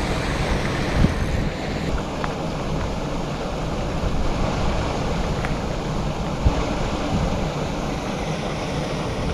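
Wind buffeting the microphone over a steady hiss of heavy rain, with a couple of soft thumps about a second in and again past the middle.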